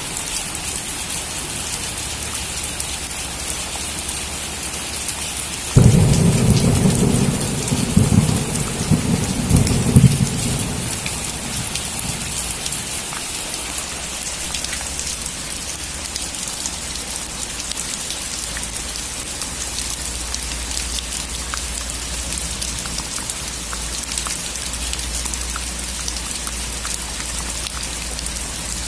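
Steady heavy rain hissing on surfaces, with a sudden clap of thunder about six seconds in that rumbles low for about five seconds before fading back into the rain.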